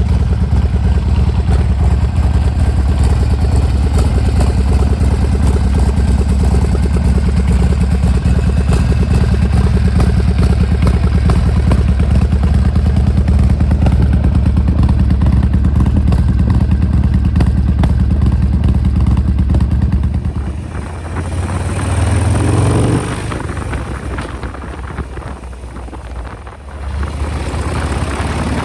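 Harley-Davidson XL1200R Sportster's air-cooled V-twin idling steadily, then about twenty seconds in it revs up with a rising pitch as it pulls away. After that the engine is quieter under wind noise.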